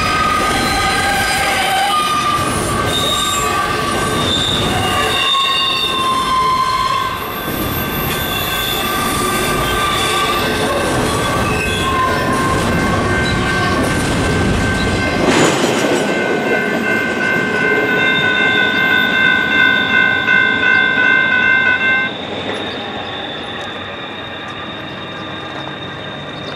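Double-stack intermodal train's well cars rolling past with their wheels squealing on a curve: wavering high squeals over the rumble and clatter of the trucks. About halfway through, the last car goes by and the rumble drops away. Steady, pulsing squeal carries on for several seconds, then fades as the train moves off.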